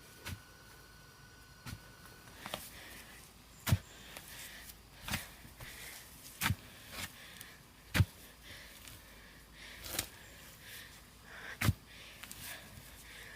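A series of sharp knocks or thuds at an uneven pace, about one every one to two seconds.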